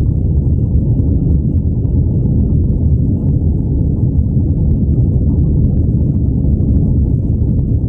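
Airplane during takeoff: a steady, loud, low rumble of engines and airflow, with a faint steady hum running through it.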